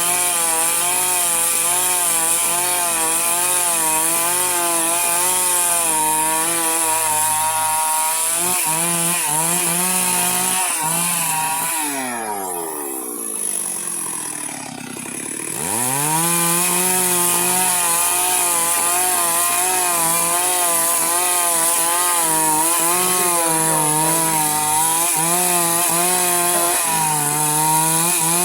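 Two-stroke chainsaw at full throttle cutting lengthwise through a log to make a beam, its engine pitch wavering under the load. About twelve seconds in the engine falls away toward idle, then revs back up about sixteen seconds in and keeps cutting.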